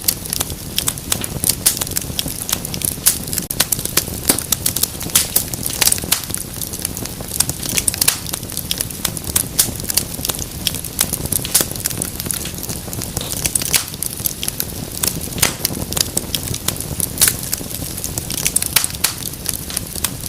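Wood fire burning in a fireplace, crackling with many sharp, irregular pops over a low, steady rumble of the flames.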